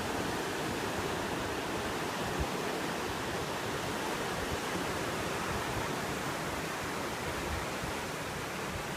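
Steady rush of moving water, with no distinct events.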